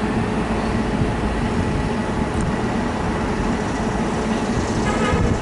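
A train running: a steady rumble of wheels on rail and motors.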